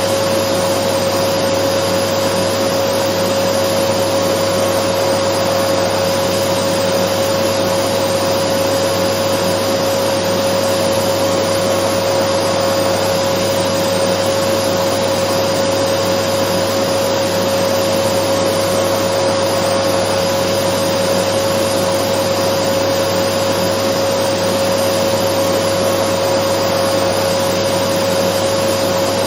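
Dyson vacuum cleaner running steadily: an even rushing noise with a constant whine over it, unchanging throughout.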